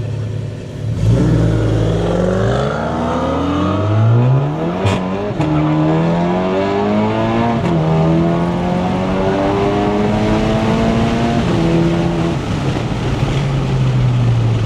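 Turbocharged 2.0 four-cylinder of a big-turbo Mk7 Volkswagen GLI launching at a drag strip and pulling hard. The engine note rises again and again, broken by several quick upshifts, then falls away near the end as the car comes off the throttle.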